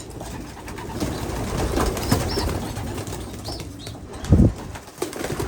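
Racing pigeons in a loft cooing and shuffling, with a few short high peeps. There is one loud, short low thump about four seconds in.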